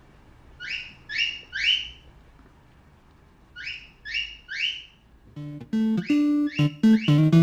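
Two sets of three quick rising, bird-like chirps, then guitar and keyboard music starting about five seconds in, with more chirps over it.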